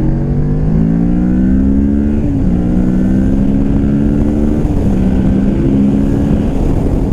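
Motorcycle engine accelerating through the gears, heard from the rider's helmet over wind rumble. The pitch climbs in each gear and drops at upshifts about two and a half seconds in and again twice near five seconds.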